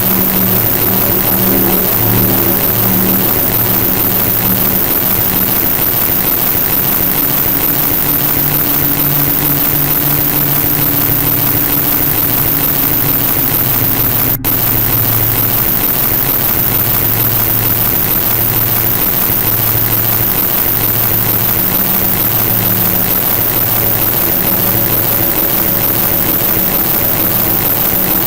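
Loud steady noise, an even hiss across the whole range with low hum tones underneath that pulse about once a second, broken by a split-second dropout about halfway through.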